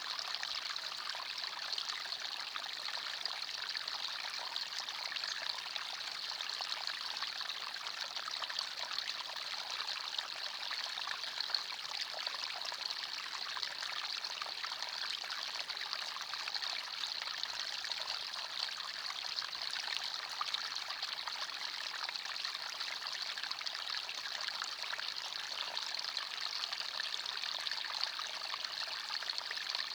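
A forest stream, its water running and trickling steadily: a bright, even rush with almost no deep rumble.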